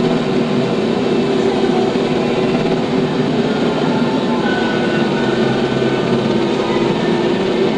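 TYM T574 tractor's diesel engine running steadily, with a continuous mechanical din.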